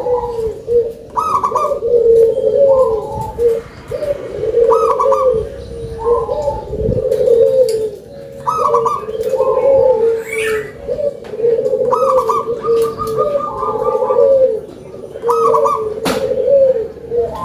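Zebra dove (perkutut) cooing its song over and over: each phrase opens with a short higher note and runs into lower, warbling coos, repeating about every two seconds. A few faint clicks fall between phrases.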